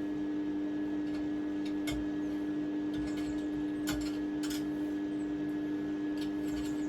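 Steady electrical hum at an even level, with a few scattered light clicks and ticks.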